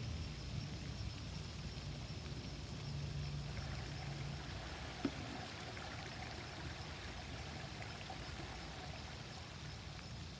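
A stream running steadily, with a low rumble underneath and a single sharp click about five seconds in.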